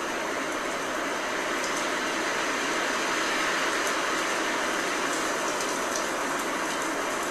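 Blizzard wind blowing in a steady rushing noise that swells slightly about halfway through, with a few faint light ticks near the end.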